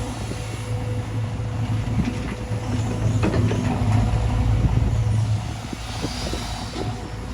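Heavy diesel earthmoving machinery running with a steady low engine hum. Clanks and rattles come in a cluster a couple of seconds in and again near the end.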